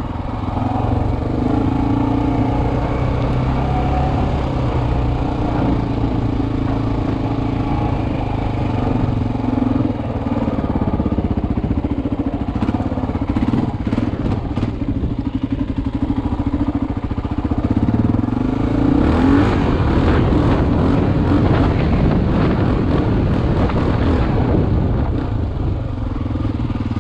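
Single-cylinder four-stroke dual-sport motorcycle engine running steadily under way, heard from the rider's helmet. Short bursts of clatter come around the middle, and a denser, louder stretch of rattling comes later.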